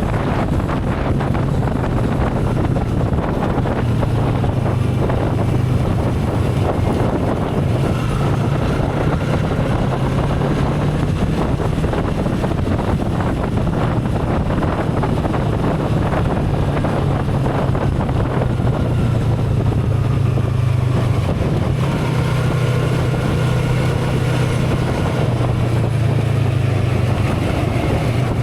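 Motorcycle engine running steadily while riding at speed, its hum shifting slightly in pitch, with wind rushing over the microphone.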